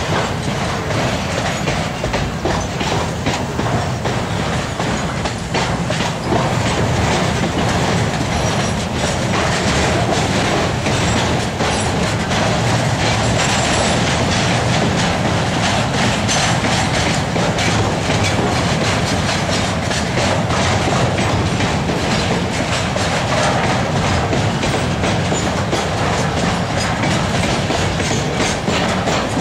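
Container flat wagons of a long freight train rolling past, their wheels clattering steadily over the rail joints in a continuous clickety-clack with a low rumble.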